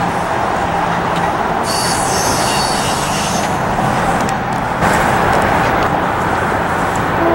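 A train passing close by, running loud and steady, with a high-pitched squeal from about two seconds in that stops a couple of seconds later.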